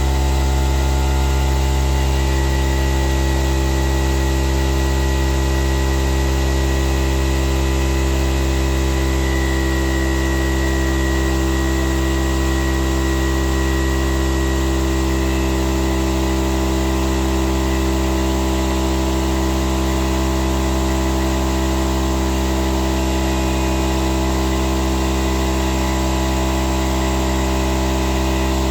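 Electric air compressor running steadily: a loud, even machine hum that holds the same pitch throughout.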